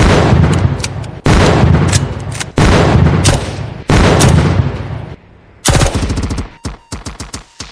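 Gunshot sound effects in a dancehall mix, between two tracks: four heavy blasts about a second and a quarter apart, each ringing out, then another blast and a quick rattling volley like machine-gun fire near the end.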